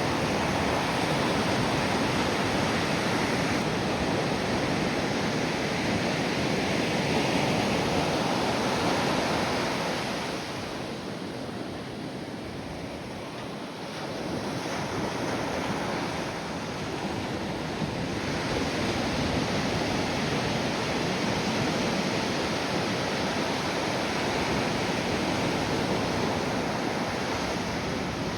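Ocean surf washing on a beach, with wind buffeting the microphone. The wash eases about ten seconds in and builds again a few seconds later as the next waves come in.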